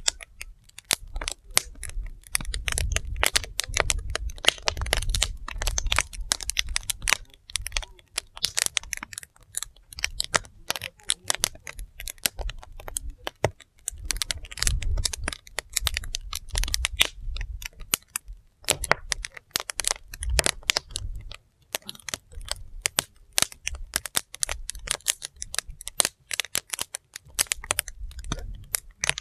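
Wood fire burning, crackling with dense, irregular pops and snaps over a low, uneven rumble.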